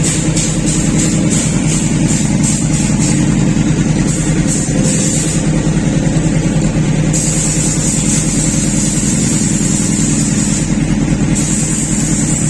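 Motorcycle engine running steadily at an even idle, with no revving.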